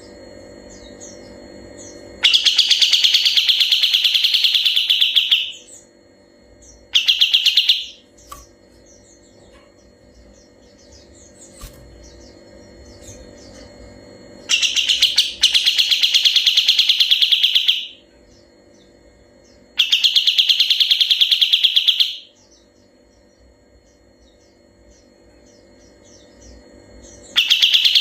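Kapas tembak songbird singing its long, rapid rolling trill (ngebren) in five loud bursts of one to three and a half seconds each. Faint short chirps are heard between the bursts.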